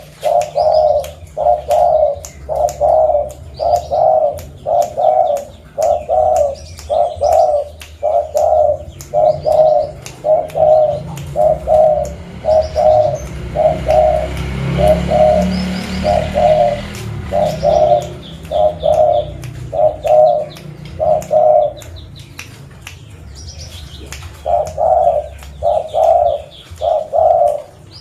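Zebra dove (perkutut) cooing: a long run of short, evenly spaced coo notes, about three every two seconds, breaking off briefly after about twenty-two seconds and resuming near the end. Faint high chirps and ticks run alongside.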